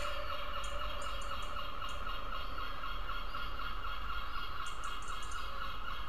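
Birds calling: a steady drone of calls with short, high chirps in small clusters now and then.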